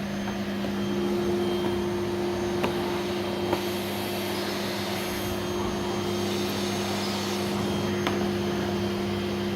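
Vacuum cleaner running steadily with an even motor hum and rushing air, hissier for a couple of seconds in the middle, with a couple of light clicks.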